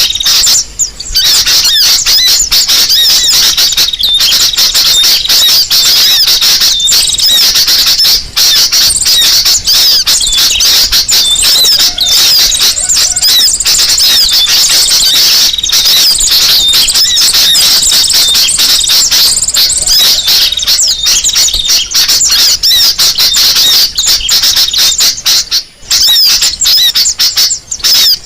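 Bird-lure recording of sunbird calls mixed with sooty-headed bulbul (kutilang) calls: loud, dense, unbroken high-pitched chirping and twittering, with only brief breaks.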